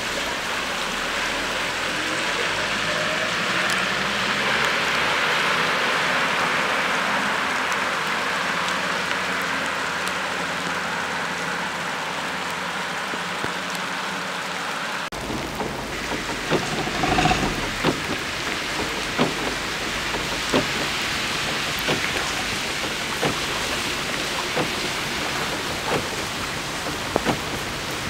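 Heavy rain on a wet street, with the hiss of vehicle tyres running through water in the first half. About halfway through the sound changes abruptly to rain with many scattered sharp drop hits.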